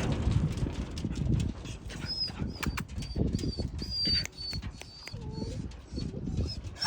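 A bird chirping, a run of short high notes repeated about every half second from about two seconds in, over a steady low rustling.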